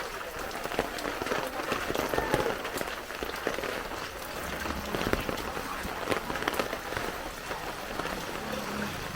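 Heavy rain falling and pattering on surfaces, with many sharp drops striking close by.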